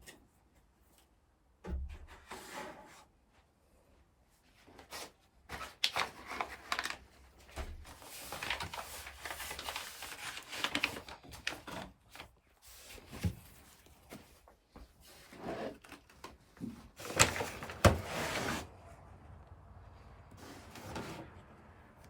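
Intermittent knocks, clunks and rustling of household objects being handled, with a few sharper knocks near the middle and a louder cluster a little past halfway.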